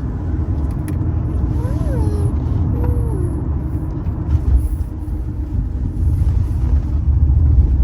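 Steady low rumble of a vehicle on the move, with two short rising-and-falling vocal sounds about two and three seconds in.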